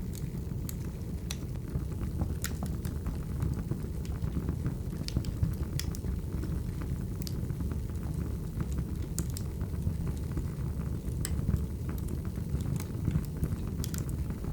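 Wood fire burning: a steady low rumble with irregular sharp crackles and pops from the logs, several a second at times.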